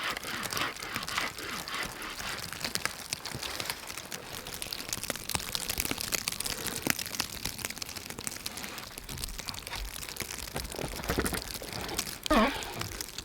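Crunching and rustling in snow, with many small crackling clicks over a steady hiss. A brief voiced sound comes near the end.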